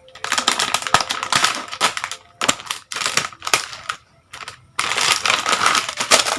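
A packet of dried soup ingredients being torn open and handled: crinkling, rustling wrapper noise with sharp clicks in irregular bursts, easing off briefly a little past the middle.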